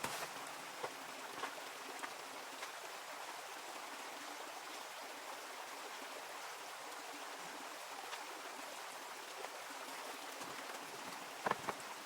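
Steady rushing of flowing water, like a forest stream. There are a few light clicks in the first few seconds and a couple of sharper knocks near the end.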